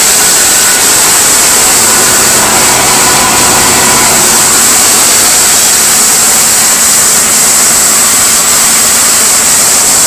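A 1998 Oldsmobile LSS's 3.8-litre V6 idling steadily with the hood open, shortly after a cold start, running smoothly with an even hum and a steady high hiss.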